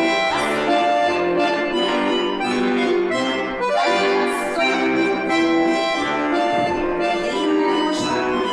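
Accordion playing a folk tune with held chords as accompaniment for a barre exercise.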